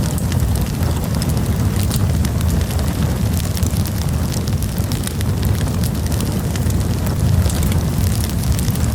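Campfire burning: a steady low rumble with many small crackles and pops.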